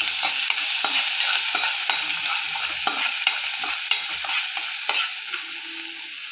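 Coarse ginger and green-chilli paste sizzling in hot oil in a non-stick kadhai. A metal spoon stirs and scrapes it, with many short clicks against the pan, and the sizzle eases slightly toward the end.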